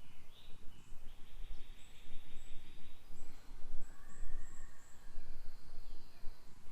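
Songbirds chirping and calling over a low, uneven rumble. A steady high buzz runs for about two seconds, starting about a second in.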